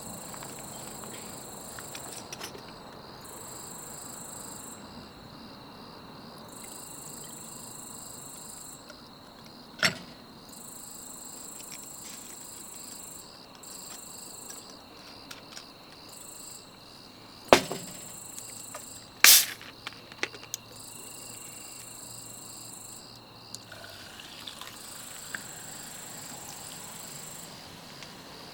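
Insects chirping in repeated high-pitched phrases a second or two long, with a few sharp knocks, the loudest about two-thirds of the way through.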